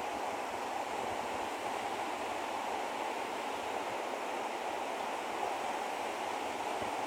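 Steady rushing of flowing water, like a stream or waterfall, even and unbroken.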